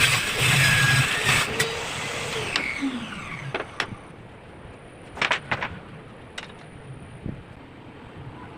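Table saw cutting plywood for about the first second, then the blade spinning down with a falling whine. A few sharp knocks follow, loudest about five seconds in.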